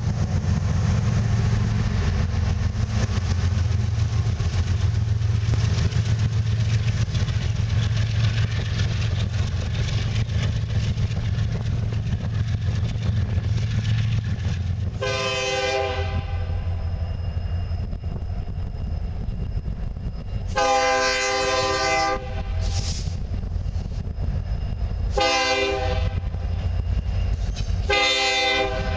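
Freight cars rolling past with steady wheel-on-rail rumble, then a diesel freight locomotive's horn sounding separate blasts: one about halfway through, then a long one, a short one and two more long ones near the end, a pattern typical of a grade-crossing warning.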